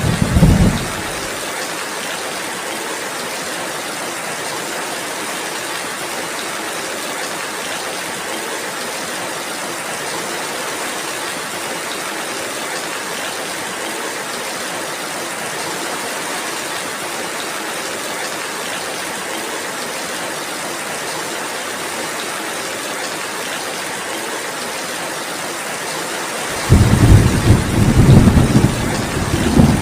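Steady rainfall, an even hiss throughout. Rolling thunder rumbles loudly at the start and dies away within about a second, then breaks in again suddenly near the end.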